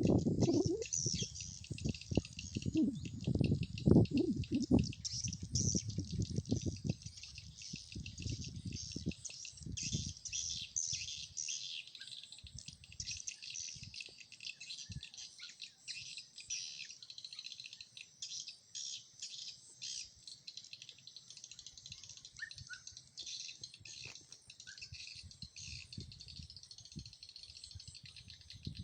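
Dense, rapid swiftlet chirping, the sound of a swiftlet house's lure call mixed with the birds themselves, going on without pause. Low rumbling noise sits under it for about the first third.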